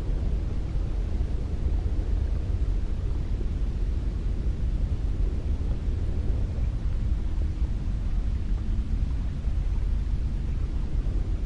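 Wind blowing steadily: a deep rumbling noise with a fainter hiss above it, even in level throughout.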